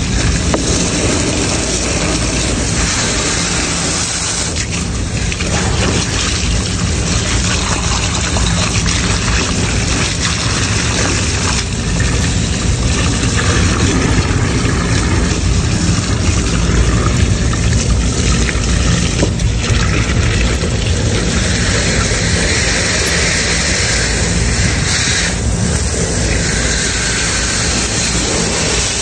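Water spraying and running as a rooftop air-conditioning unit's condensate drain pan is flushed clean, over a steady low machinery hum.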